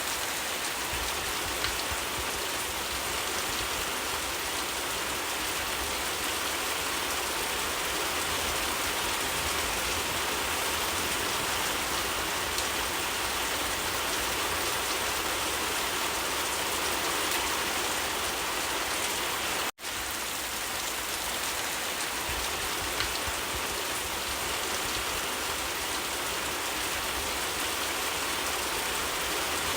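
Steady heavy rain falling, an even hiss with occasional faint drop ticks; the sound cuts out for an instant about twenty seconds in and then resumes.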